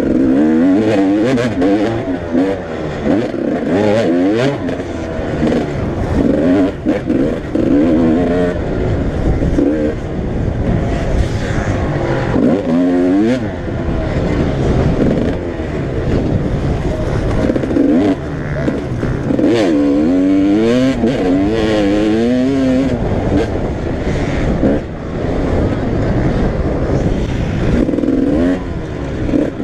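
Several motocross bikes racing round a dirt track, engines revving up and falling back again and again as they accelerate and brake through the corners, loud and continuous.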